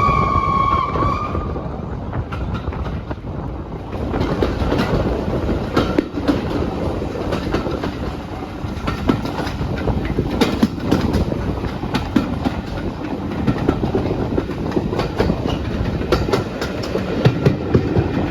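Heritage railway carriage running along the line, with the rumble of the wheels and repeated clicks as they pass over rail joints; the clicks come more often near the end. A short whistle tone ends about a second in.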